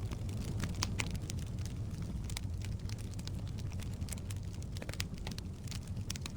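Wood logs burning in a fireplace, crackling with frequent irregular pops over a steady low rumble of the flames.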